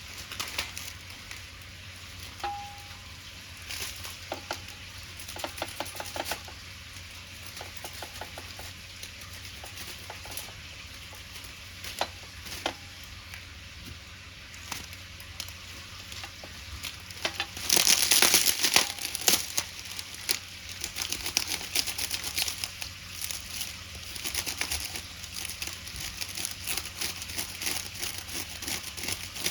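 Pancake batter sizzling in a pan over a wood fire, with scattered crackles and clicks, and a louder burst of hissing about eighteen seconds in.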